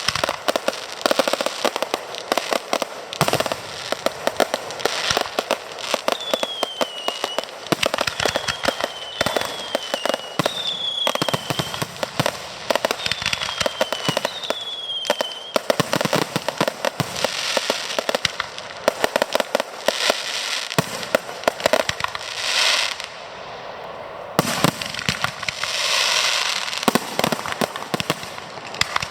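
Fireworks display: a dense, rapid run of crackling bangs and pops, with about six short falling whistles in the middle and swells of crackling hiss near the end.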